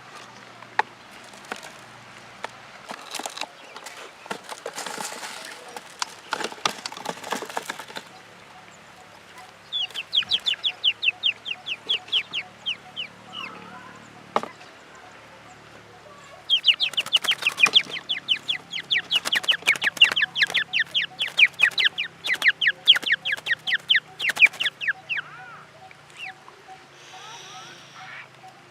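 A bird calling in two long runs of short, quick falling notes, about six a second, after several seconds of rustling and clattering.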